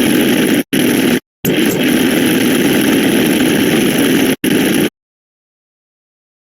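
A dense, steady wall of many overlapping sound effects layered together, heard as even engine-like noise, that drops out abruptly to dead silence twice in the first second and a half, once briefly after about four seconds, and then for good about five seconds in.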